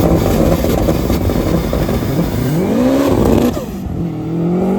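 A car engine accelerating hard down a drag strip: its pitch climbs, drops sharply at a gear change about three seconds in, then climbs again.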